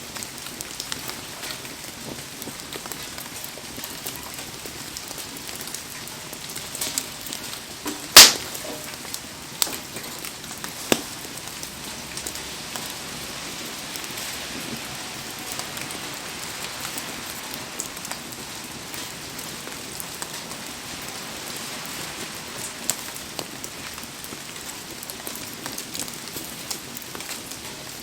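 Heavy rain falling steadily over a crackling wood campfire. A sharp, loud pop about eight seconds in is followed by two smaller pops shortly after.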